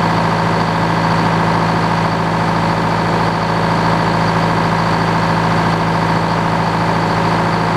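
Sawmill's power engine running steadily at constant speed, with a fixed hum and a high steady whine above it.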